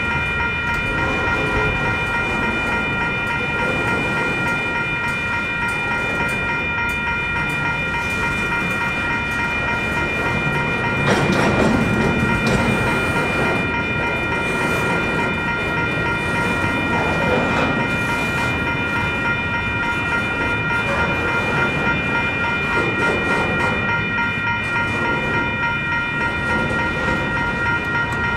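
Intermodal freight train cars rolling slowly past, with a steady rumble and a steady high-pitched whine over it. A louder rough stretch comes about eleven seconds in.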